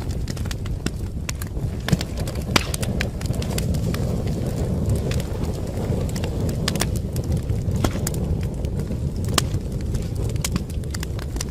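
Wood fire crackling: irregular sharp pops and snaps over a steady low rumble of burning. A couple of louder pops come about two seconds in.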